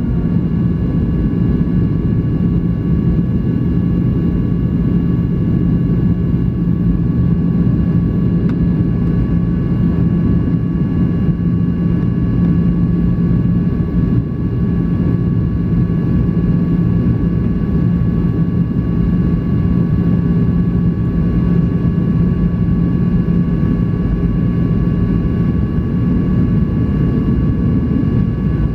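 Cabin noise inside a Boeing 737-800 in flight: a steady low roar of airflow and CFM56-7B turbofan engines, with a constant hum and a few faint high steady tones over it.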